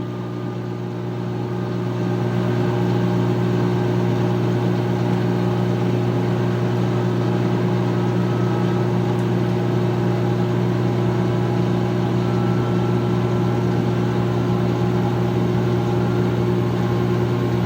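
2006 GE Profile washing machine spinning its drum at speed: a steady motor and drum hum with several held tones, growing louder about two seconds in as the spin speeds up.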